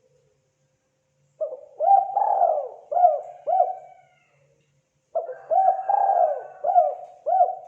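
Spotted dove cooing: two phrases of several rolling notes each, about four seconds apart.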